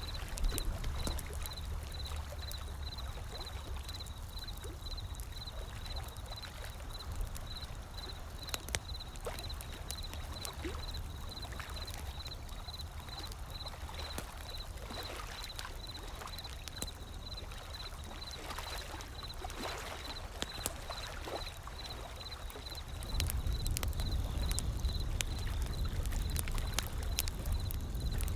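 Wood fire crackling with scattered sharp pops over the low rumble and wash of ocean waves; the surf grows louder near the end.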